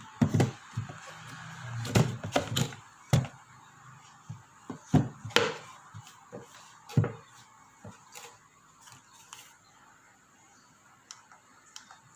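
Objects being handled and set down: a run of sharp knocks and clicks through the first seven seconds or so, then only a few faint clicks.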